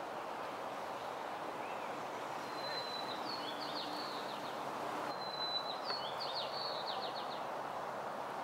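A songbird sings twice, each song a thin held whistle followed by a quick run of chirping notes, over a steady hiss of outdoor background noise.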